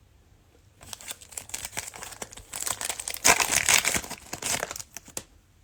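Cellophane wrapper of a cello pack of trading cards crinkling and tearing as it is opened, a dense crackle that starts about a second in and is loudest a little past the middle.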